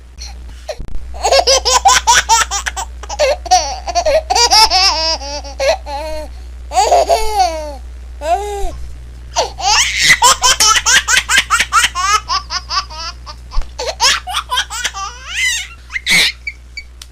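A baby laughing in repeated bouts of rapid, breathy giggles and squeals, with short pauses between them, over a steady low hum.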